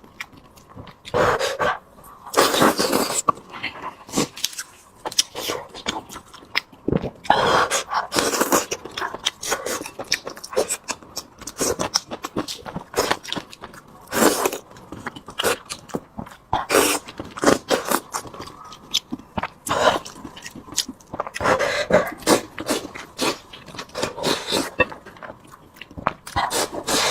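Close-up chewing of braised pork: irregular wet smacks and crunches of a mouth eating, one after another.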